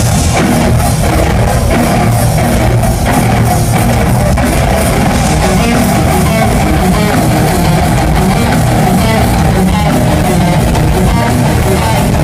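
Live thrash metal played at full volume: distorted electric guitars and a drum kit, heard from within the crowd.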